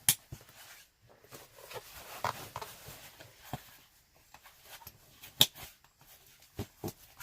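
Irregular rustling and short sharp clicks of a person moving about and handling gear close to the microphone, with one louder click about five seconds in.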